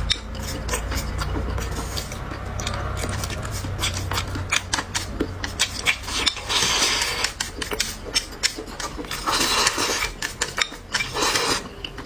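Eating sounds close to the microphone: chewing and mouth clicks with many short ticks, and a few louder noisy bursts of about a second each, two-thirds of the way through and near the end. A low hum under the first few seconds fades out about four seconds in.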